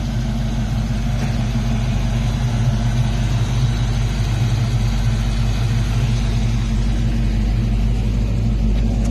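1987 Mustang GT's 5.0-litre V8 idling steadily through a freshly installed exhaust of BBK shorty headers, an H-pipe and Flowmaster American Thunder mufflers, with a deep, even exhaust note.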